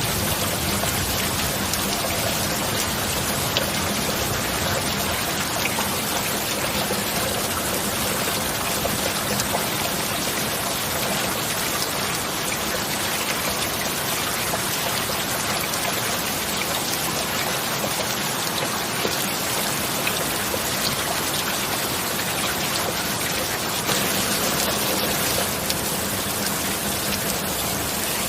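Steady heavy rain, an even hiss of drops with no thunder, over a faint steady low tone.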